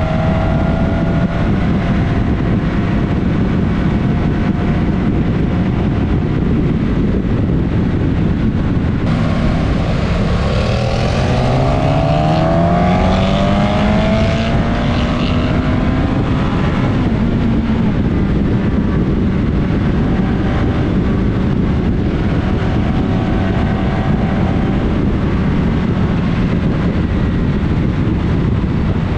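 Suzuki GSX-S1000S Katana's inline-four motorcycle engine running under way, with wind rushing over the helmet-side camera. About ten seconds in, the engine note climbs steadily for several seconds as the bike accelerates through a gear, then levels off.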